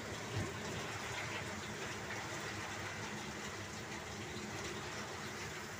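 Heavy downpour of rain falling steadily, an even hiss.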